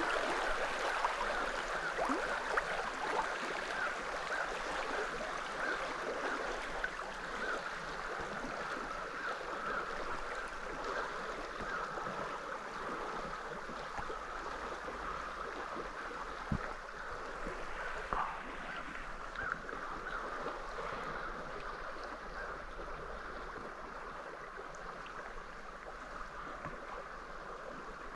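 River current running over rocks, a steady babbling rush that slowly fades, with a couple of faint knocks about two-thirds of the way through.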